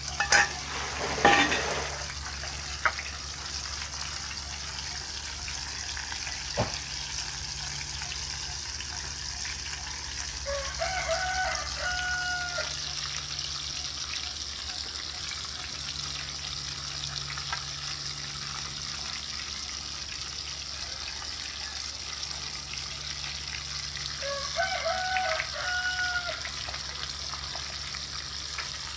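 Oil sizzling steadily in a frying pan as minced shallots and garlic fry with jackfruit pieces, with a few sharp clinks of a metal spoon and ladle against the pan and bowl in the first two seconds. A rooster crows twice in the background, about ten seconds in and again near the end.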